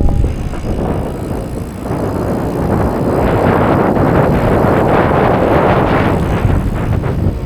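A road vehicle passing close by, its noise swelling over a few seconds to a peak past the middle, then easing off near the end.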